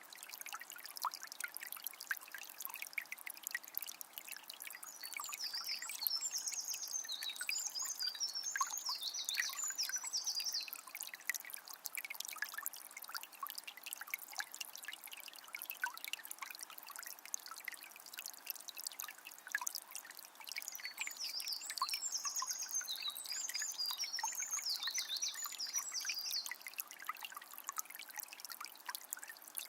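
Small spring trickling, a steady patter of fine splashes and drips with no low rumble. A small bird sings a short run of high chirps twice, about six seconds in and again about twenty-one seconds in.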